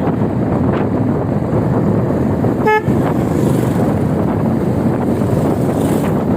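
Wind rushing over the microphone on a moving e-bike, with a single short horn beep a little under halfway in.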